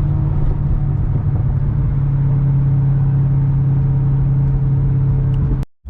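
Corvette's LS2 V8 running at a steady cruise, a deep even drone with a slight drop in pitch about a second and a half in; it cuts off suddenly near the end.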